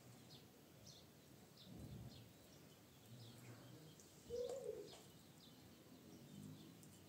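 Faint, repeated short bird chirps over quiet outdoor background noise, with one brief louder, lower-pitched call or sound about four seconds in.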